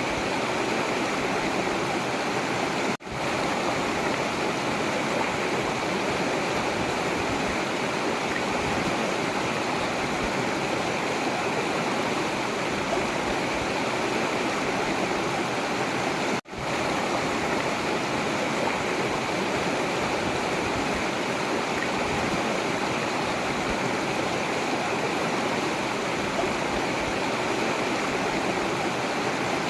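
Forest river flowing, a steady rushing of water that cuts out for an instant twice, about 3 seconds in and about 16 seconds in.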